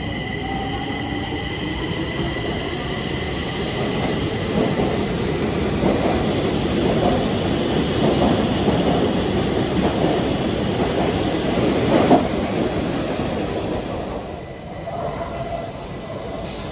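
Stockholm Metro train running on the rails: a rumble that builds to its loudest around twelve seconds, with a sharp clack there, then drops off about two seconds later. A high steady whine sounds over the first few seconds.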